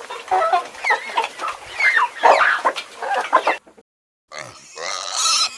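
Chickens clucking, a busy run of short calls, breaking off suddenly about three and a half seconds in; after a brief silence a different sound starts.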